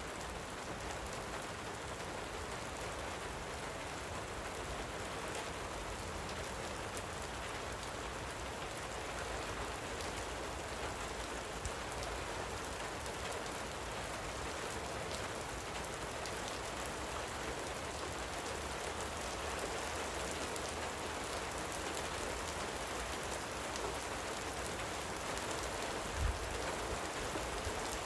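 Steady light rain falling, an even hiss with many small drop ticks. A single brief low thump comes near the end.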